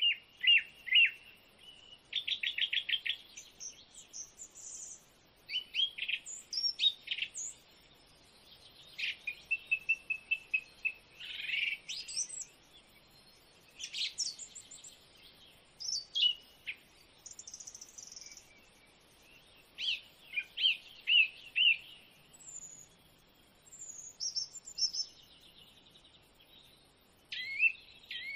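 Songbirds singing: a continuous string of varied high chirps, quick trills and short whistles, in phrases broken by brief pauses.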